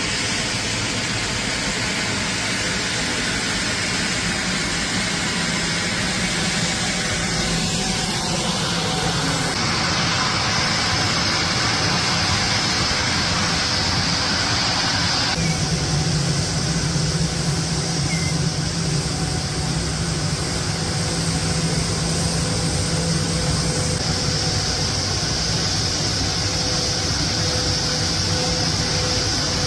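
Jet engines of a Bombardier Global Express business jet running steadily at low power: a continuous roar with steady tones, whose mix shifts a couple of times.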